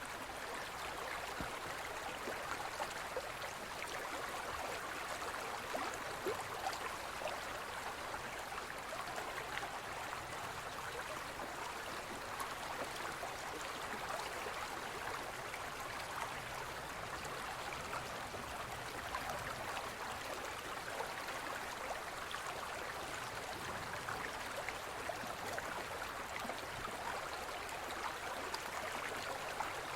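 Shallow forest stream flowing over stones, a steady rushing with small splashes and gurgles.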